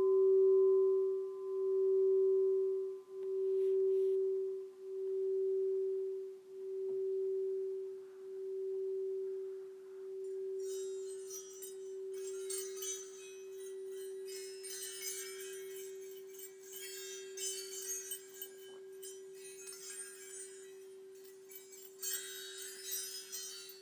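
Alchemy crystal singing bowl ringing on after a strike, one low tone that pulses in slow waves about every second and a half and slowly fades. About ten seconds in, high shimmering chimes begin tinkling over it in waves.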